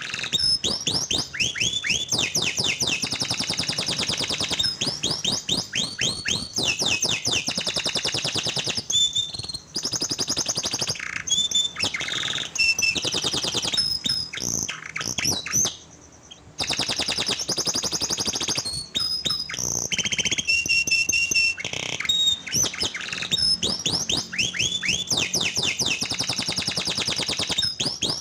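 Canary singing a long, rapid song of fast trills and repeated sweeping notes, with one short break about halfway through. It is a trigger song meant to prompt a silent canary to sing.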